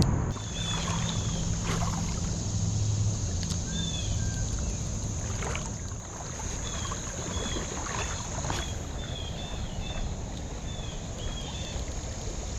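Creek ambience: a steady high drone of crickets and other insects, water sloshing and splashing around the angler, and a run of short high chirps.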